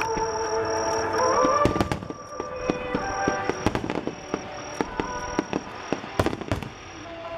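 Fireworks bursting in quick succession, a string of sharp cracks and pops with the heaviest bangs about two seconds and six seconds in, over music playing along with the display.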